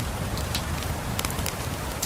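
Steady rain falling over a low rumble, with a wood fire crackling: a handful of sharp pops, most of them a little past the middle.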